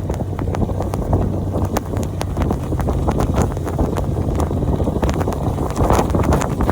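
A vehicle engine running low under a string of irregular sharp crunches and clicks, with wind noise on the microphone.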